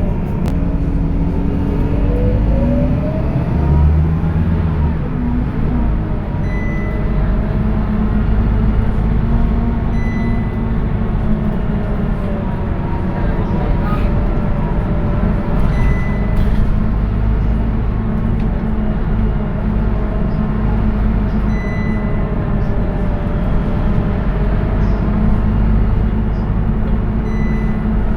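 Scania K230UB bus's diesel engine and ZF automatic gearbox heard from on board. A whine rises in pitch over the first few seconds as the bus gathers speed, then it runs on at a steady drone.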